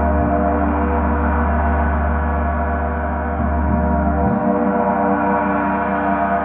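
Gong played in a continuous, sustained wash: many overlapping ringing tones at a steady loudness, with the deep low hum underneath changing about four seconds in.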